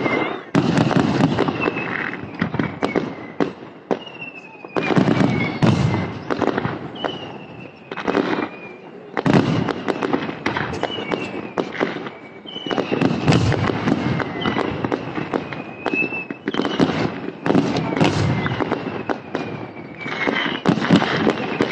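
Fireworks display: a dense, continuous run of bangs and crackling, with whistles that fall slightly in pitch, repeating every couple of seconds.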